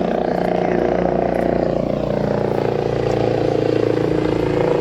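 Helicopter flying past, a steady engine and rotor drone.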